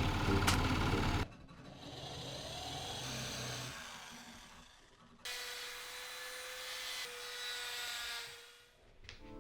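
Small power tool working wood in a few short passes, with a steady motor whine through the second half.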